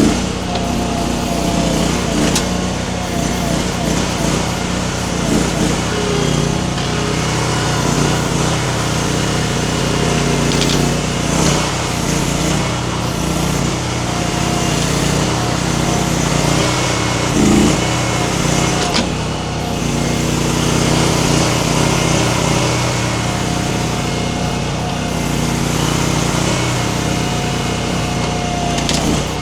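Baumalight mini skid steer's engine running steadily at working speed, its tone shifting a little as the machine works.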